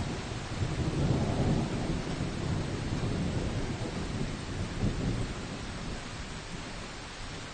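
Steady rain falling in a forest, with a low rumble that swells about half a second in and fades away over the next five seconds.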